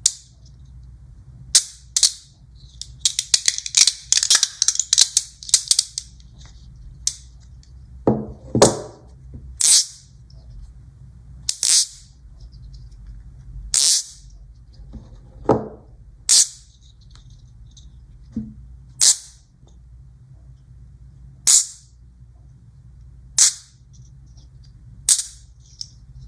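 Magnet balls snapping together with sharp clicks: a quick clattering run of clicks about three to six seconds in, then single sharp snaps about every two seconds, a few with a duller knock.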